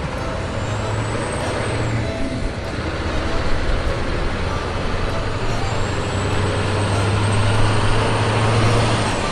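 A truck engine running steadily, its low hum growing louder toward the end, with a faint high whine coming and going above it.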